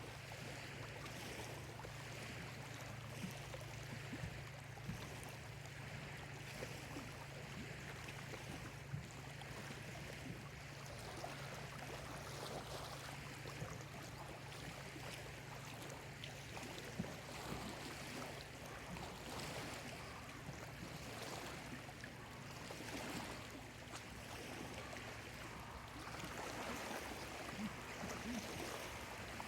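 Small lake waves lapping at the shore: a steady wash of water with scattered small splashes.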